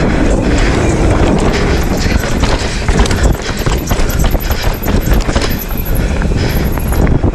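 Specialized Stumpjumper Evo mountain bike clattering over a rough trail, with tyres hitting roots and rocks and the bike rattling in a dense stream of knocks over a low rumble.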